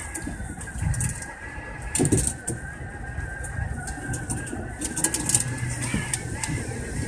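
Electric commuter train running, heard from the driver's cab: a low rumble from the wheels with a steady, slightly wavering whine over it and a few light ticks.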